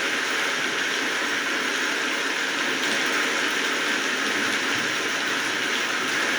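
Steady rainfall, an even hiss of many drops that does not change.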